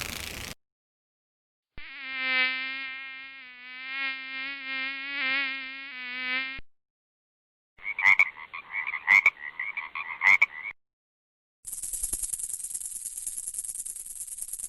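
A run of separate short sound effects. First a wavering, insect-like buzz lasts about five seconds. Then comes about three seconds of rough, pulsing chatter broken by sharp clicks, and near the end a high, fast, even rattle starts.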